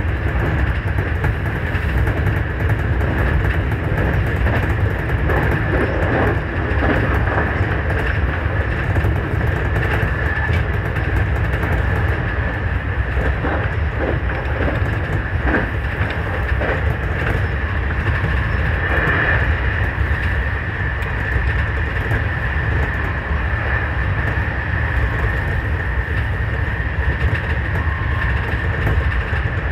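JR Kyushu 813 series electric train running at speed, heard from inside the front cab: a steady rumble under a constant high whine, with scattered clicks of the wheels over rail joints and points.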